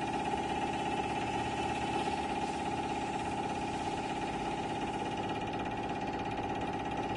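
CK6140 CNC lathe running on test, giving a steady, even hum-like tone with a strong mid-pitched note.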